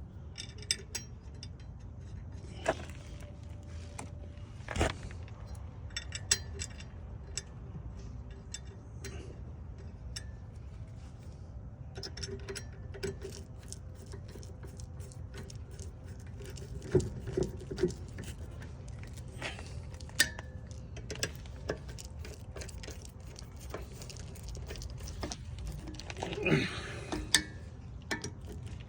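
Hand tools and metal brake parts clinking and knocking during rear brake and disc work: scattered light clicks with a few sharper knocks, over a steady low background rumble.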